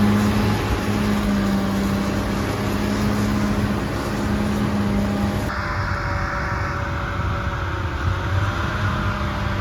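CAT D6R XL bulldozer's diesel engine running steadily with a low, even hum. The sound changes abruptly about five and a half seconds in.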